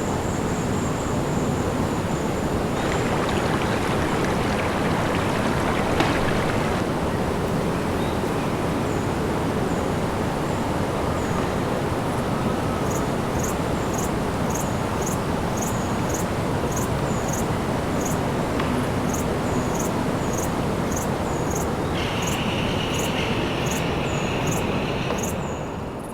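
Steady rushing noise, with short high chirps repeating about one and a half times a second through the second half.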